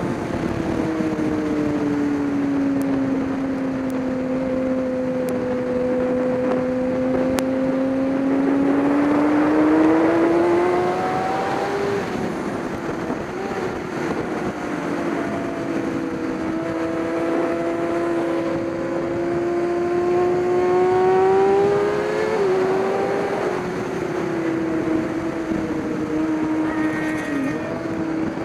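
Racing motorcycle engine running hard, its pitch sagging and climbing again over several seconds at a time as the bike slows and accelerates, over a steady rush of wind.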